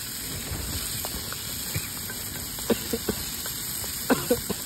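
Onions frying in oil in a small kadhai on a portable gas stove, a steady crackling sizzle, with a few sharp clicks in the last two seconds.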